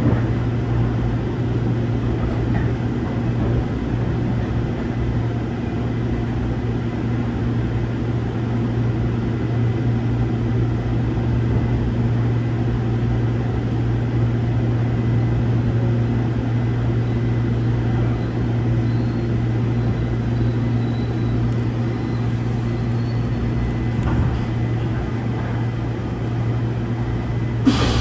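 Steady running noise heard inside a Seoul Metropolitan Subway Line 1 electric commuter train as it rolls along the track and alongside a station platform, with a constant low hum underneath. A short knock comes near the end.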